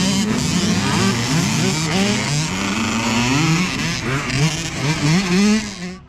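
A pack of youth dirt bikes racing away from the start. Several engines rev together, their pitches repeatedly climbing and overlapping as the riders shift up through the gears. The sound cuts off suddenly near the end.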